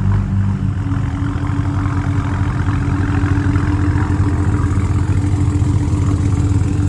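Loud performance-car V8 engine idling steadily at close range.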